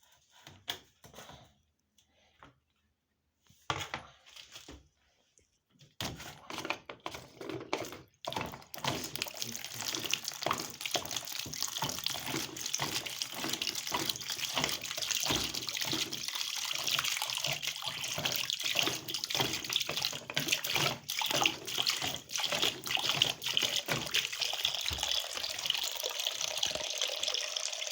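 Water being drained by hand out of an AEG washing machine into a container, a steady splashing and trickling that starts about six seconds in after a few handling clicks. It is the water the machine could not pump out itself under its E20 error, which was later traced to a clogged drain filter.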